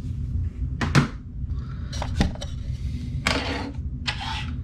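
Handling noise from small plastic items: two sharp clicks followed by two short rustles, over a low steady hum.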